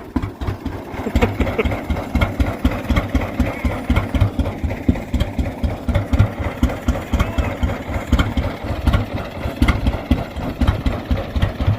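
1922 Rumely OilPull 16-30H tractor's two-cylinder engine running with a steady, rhythmic low beat just after being tow-started. It has come back to life now that the sticking fuel pump is freed.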